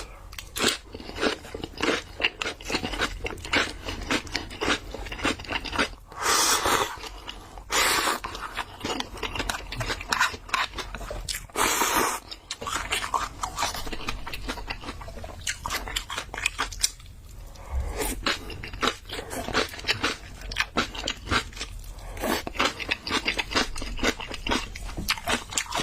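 Close-miked chewing of spicy ramen with bean sprouts and rice cakes: a dense run of wet mouth clicks and crunches, broken by a few noisy bursts about a second long.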